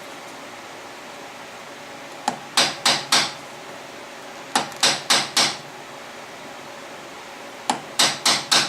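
Hammer blows driving a cylinder sleeve down into the engine block of an IH 354 tractor: three rounds of strikes, each a light tap followed by three hard, ringing blows.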